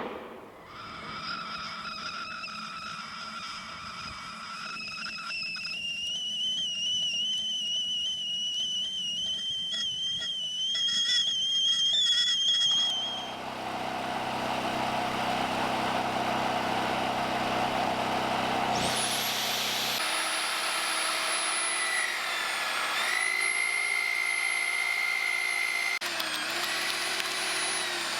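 Electric power tool motor running in several stretches: a whine that climbs in pitch about five seconds in and stops around the middle, then a higher whine that dips in pitch and recovers a few times as the tool loads down in the wood.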